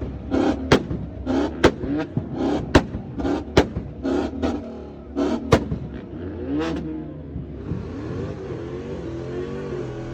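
Car engine revved hard in repeated bursts, about one a second, each with a sharp exhaust crack or pop. In the last few seconds the pitch glides up and down and settles into steady running.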